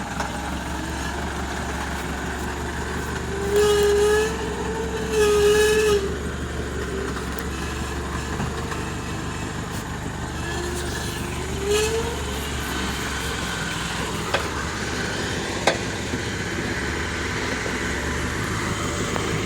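Truck engine running steadily at low speed on a rough dirt track. Two loud, wavering, pitched squeals come about four and five seconds in, a shorter rising one comes past the middle, and two sharp knocks come near the end.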